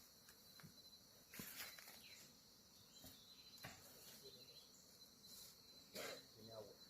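Faint outdoor ambience: a steady, high, faintly pulsing insect trill, with a few soft knocks about one and a half, three and a half and six seconds in.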